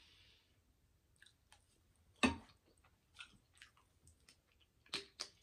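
A person chewing a mouthful of chicken and shrimp fettuccine Alfredo close to a microphone: soft, wet mouth clicks and smacks, with one sharper click about two seconds in and two more near the end.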